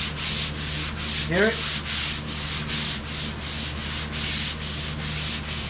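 Hand sanding of a car body panel: sandpaper drawn back and forth in quick even strokes, about three a second, with a gritty rasp that shows the paint surface is still rough.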